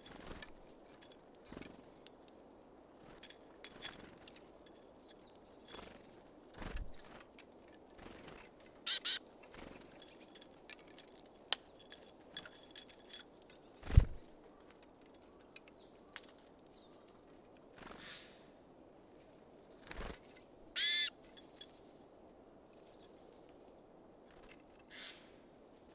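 Small birds at a feeder: scattered light taps and clicks of birds landing and pecking at seed, a few short high calls (a brief one about 9 s in and a longer one about 21 s in), and one heavier thump about 14 s in.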